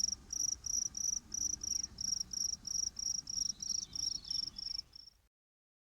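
Cricket chirping in a steady, even rhythm, about four high chirps a second, then cutting off abruptly about five seconds in.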